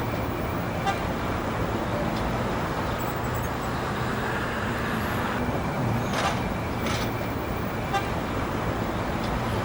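Steady city street traffic noise, with a couple of brief vehicle horn toots about six and seven seconds in.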